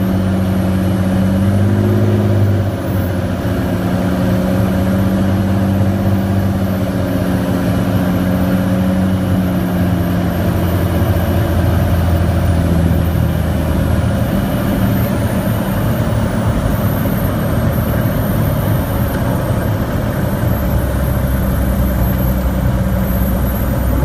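Cirrus SR22T's turbocharged six-cylinder engine and propeller droning steadily in the cabin, the tone shifting slightly about two seconds in and again around the middle.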